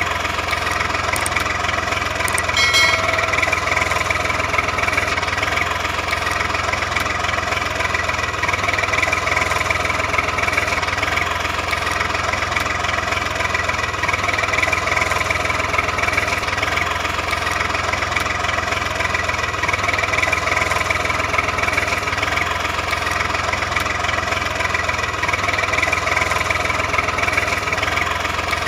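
An engine running steadily at an even pace with no change in speed, with a brief high-pitched tone about three seconds in.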